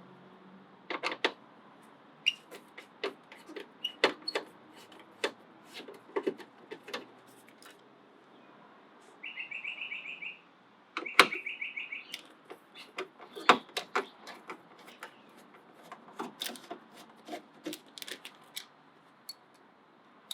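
Scattered sharp clicks and taps as a power window relay's electrical connector and screws are worked by hand. There are two short runs of fast, high ticking about nine and eleven seconds in.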